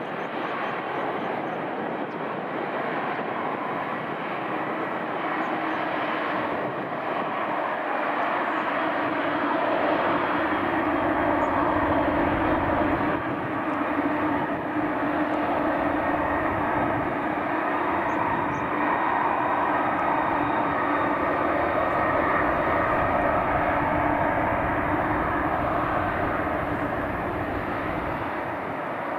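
Airbus A330 jet engines running steadily at taxi power as the airliner taxis. The sound grows louder after about eight seconds and eases slightly near the end.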